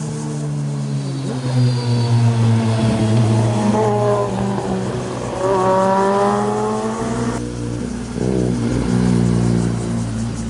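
Motorcycle engines revving and rising and falling in pitch as the bikes pass, with background music. The sound cuts abruptly about seven seconds in.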